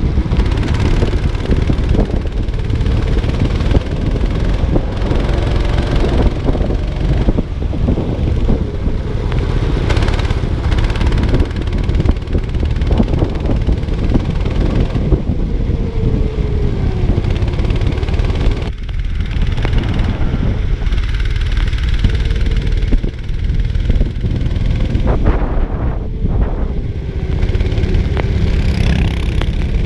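Go-kart engine running under race load, its pitch rising and falling repeatedly as the kart accelerates and lifts through corners, over a heavy low rumble of wind and road noise.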